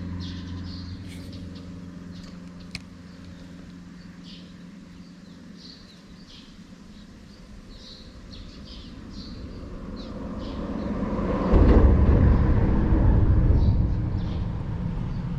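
A motor vehicle passing by, its rumble building through the middle, loudest about three-quarters of the way in, then fading. Birds chirp throughout.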